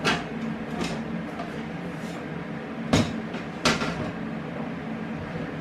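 A few sharp knocks and bumps, the loudest near the start, about three seconds in and shortly after, over a steady low hum.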